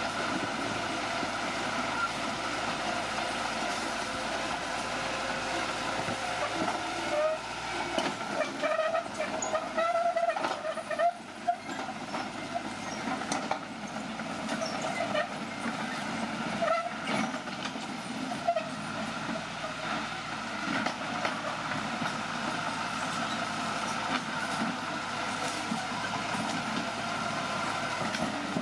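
Bulldozer running steadily, with wavering high metallic squeals and clanks through the middle, the kind that steel tracks make.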